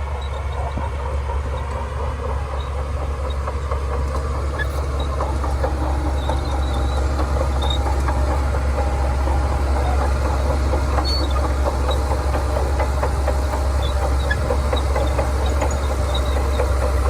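Shantui crawler bulldozer's diesel engine running steadily, with the rattling clatter of its steel tracks. It grows louder over the first several seconds as the machine works closer.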